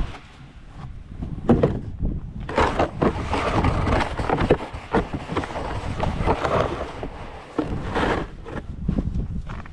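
Snow shovel scraping and pushing snow across a driveway in irregular strokes, over a steady low rumble.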